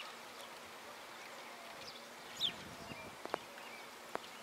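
Faint outdoor ambience with a small bird giving a few short, high chirps, the clearest about two and a half seconds in. A couple of sharp little clicks follow later on.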